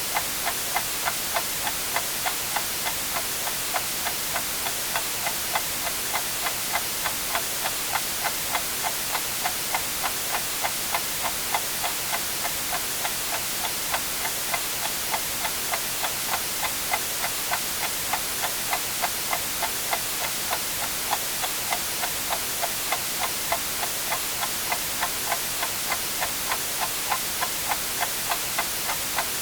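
Clock ticking steadily, about two ticks a second, over a constant white-noise hiss.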